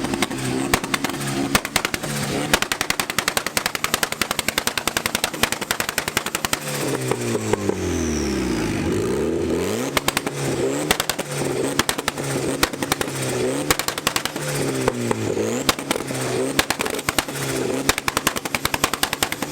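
A car engine revved hard at a standstill, bouncing off the rev limiter with a rapid machine-gun crackle of exhaust pops. Around the middle the pitch sweeps down and climbs back up, then it surges up and falls back about once a second. Very loud.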